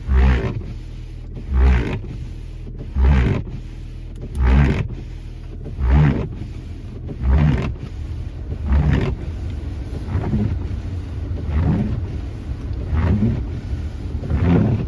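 Audi A4 B8 2.0 TFSI turbocharged four-cylinder running after a cold start, a steady low hum. Over it come regular loud low pulses about every second and a half, which ease somewhat after the first half.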